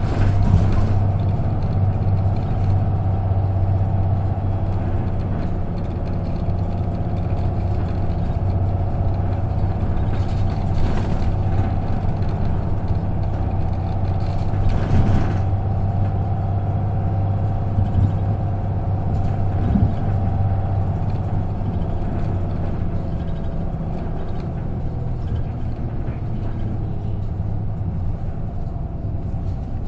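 Isuzu KK-LR233J1 non-step bus under way, its engine running with a steady low drone and a steady whine above it. A few brief rushing noises break in, near the start and twice around the middle.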